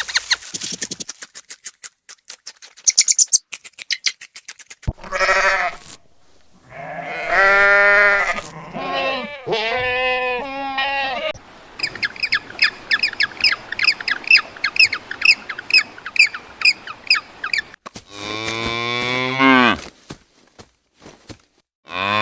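Farm animals calling one after another: rapid clicking at first, then several wavering bleats, a run of quick, high chirps for about six seconds, and another long bleating call near the end.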